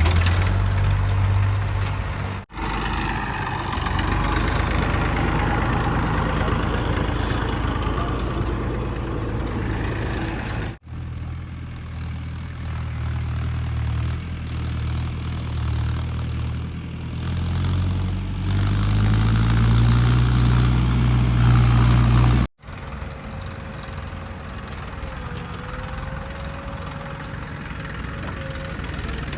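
Heavy diesel engine running steadily, then revving up, rising in pitch, about two-thirds of the way through. The sound is cut abruptly three times, where separate stretches are spliced together.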